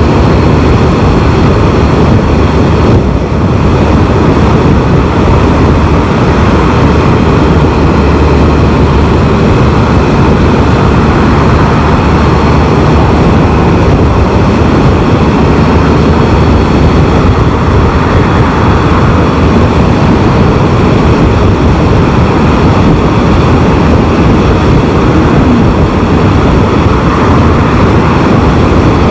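Steady wind rush and engine noise from a Can-Am Spyder three-wheeled motorcycle cruising on the open road, heard loud and unbroken on the rider's camera microphone.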